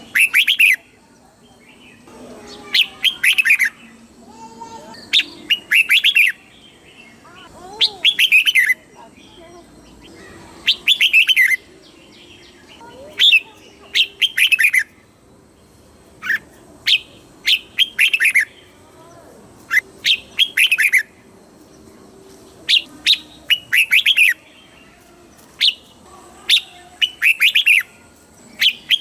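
Red-whiskered bulbul singing short, quick phrases over and over, one burst every two or three seconds.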